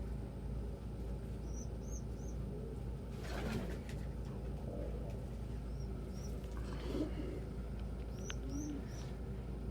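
Domestic pigeons cooing softly in short low calls, with small high chirps scattered throughout and a brief rustle, like wings, about three seconds in.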